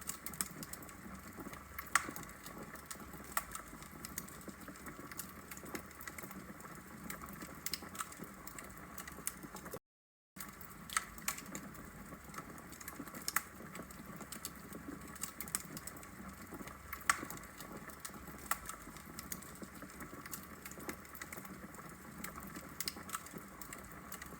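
Wood logs burning in a fireplace, crackling with frequent irregular pops and snaps over a soft steady hiss. The sound drops out to complete silence for about half a second near the middle.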